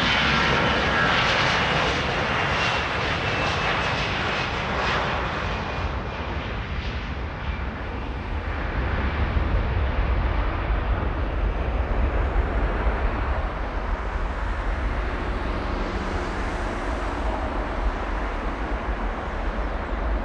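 Jet airliner's engines running loud as it passes, a whine falling in pitch over the first few seconds above a steady low rumble.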